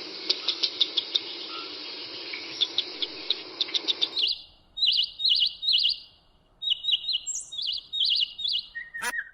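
Small birds chirping: a dense chorus of quick chirps over a steady hiss for about the first four seconds, then a bird's repeated high chirps, about two a second.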